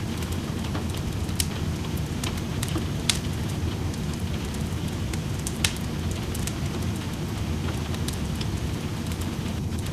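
Steady rain with a wood fire crackling in a fireplace: an even rushing hiss, with sharp pops scattered through it. The loudest pops come about one and a half, three and five and a half seconds in.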